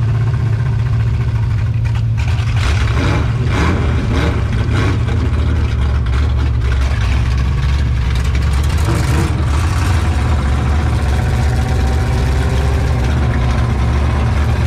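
Demolition derby car's engine idling: a loud, steady, low rumble. Scattered clicks and rustling come between about two and seven seconds in.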